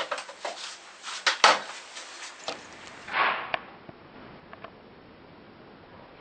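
Workshop handling noise: a quick run of light clicks and knocks, the sharpest about a second and a half in. About three seconds in comes a short scraping rush, then a few faint ticks.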